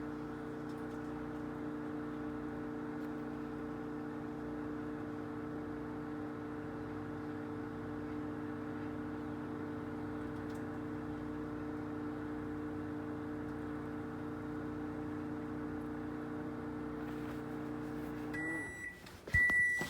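Microwave oven running with a steady hum while it heats an omelet. Near the end the hum winds down and stops, and the microwave beeps twice to signal the end of the cycle.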